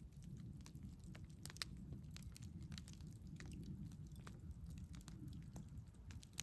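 Wood fire crackling: irregular small pops and snaps, a few sharper ones, over a low steady rumble of the burning fire.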